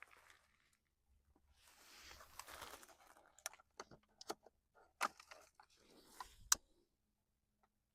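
Dry kindling at a freshly lit campfire rustling and then cracking: a short rustle, followed by a string of sharp, separate snaps.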